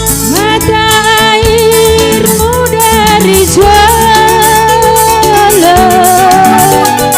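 Music: a singer holds long notes with vibrato, sliding up into them, over an instrumental accompaniment.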